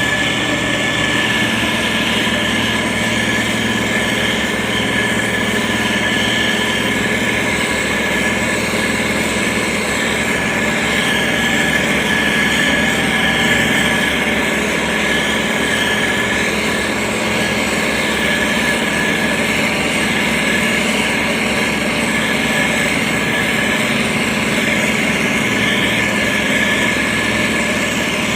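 Engine of heavy road-construction machinery running steadily, with no pauses or revving.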